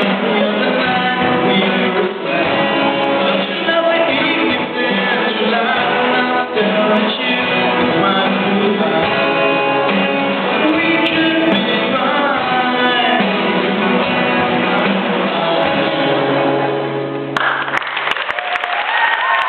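School band playing a song live, with singing and guitar, ending on a held low note. Near the end the music stops and the audience applauds.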